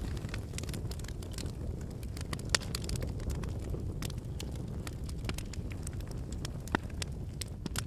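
Wood campfire burning: a steady low rumble of flames under frequent sharp crackles and pops of firewood, with two louder pops about two and a half and seven seconds in.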